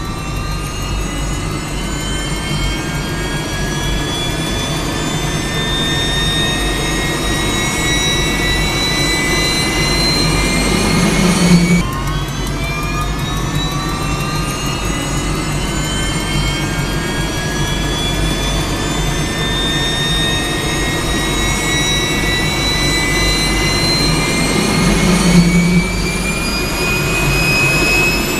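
Jet engine whine rising steadily in pitch over a low rumble. It drops back sharply about twelve seconds in, then climbs again the same way.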